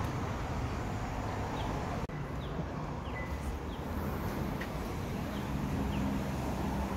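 Outdoor ambience: a steady low rumble, with a small bird chirping over it in short falling notes about every half second. A brief dropout about two seconds in.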